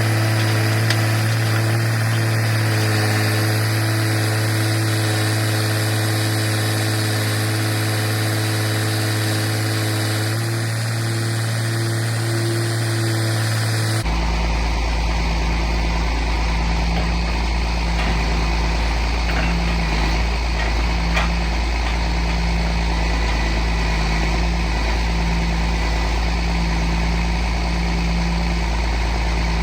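Log truck engine idling with a steady hum. About halfway through, the sound changes abruptly to a deeper, lower hum.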